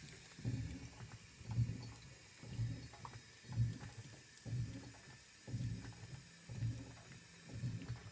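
2012 LG top-load washing machine gently agitating a delicates load, with water sloshing in a low swish about once a second as the wash plate moves the clothes.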